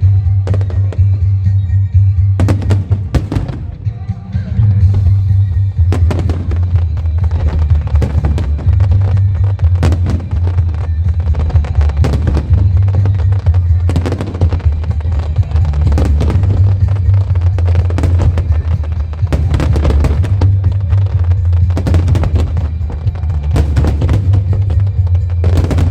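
Fireworks display: many bangs in quick succession over a heavy low rumble, with music playing along.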